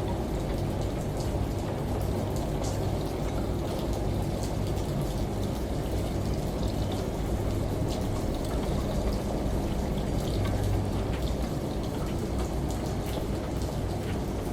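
Steady rain with scattered drop ticks, over a low, uneven hum that swells and fades.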